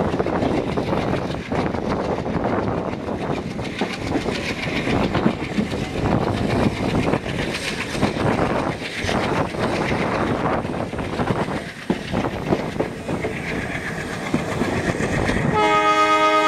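Passenger train coaches rolling past at low speed as the train pulls out, wheels clattering over the rail joints. A steady pitched tone with several notes starts abruptly near the end.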